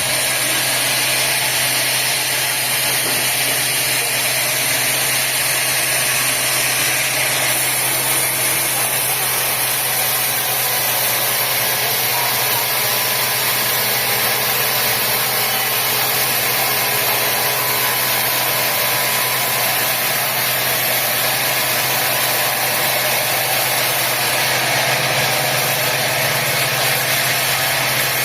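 Sawmill machinery running steadily: a constant engine-like hum under a dense hiss, with no starts, stops or changes in pitch.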